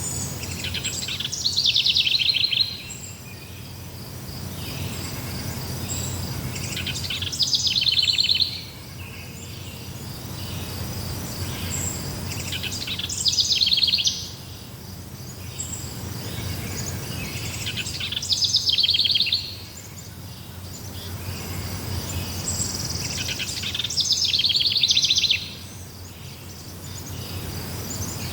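A songbird repeating the same short, rapid trilled phrase about every five and a half seconds, five times in all. A steady high insect trill and a low background rumble run underneath.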